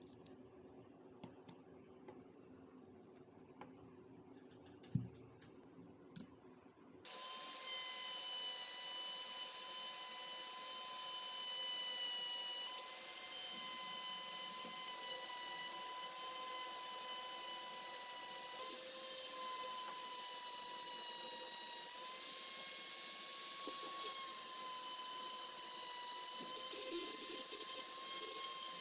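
A small high-speed electric power tool switches on about seven seconds in and runs steadily with a high whine, its pitch dipping slightly now and then as it meets load. Before that there are only a few light clicks.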